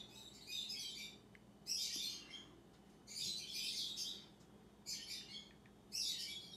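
A bird chirping in five short, high bursts, about one a second.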